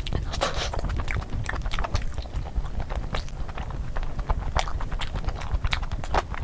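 Close-miked eating sounds: chewing and mouth smacking, with many short, irregular wet clicks over a low rumble.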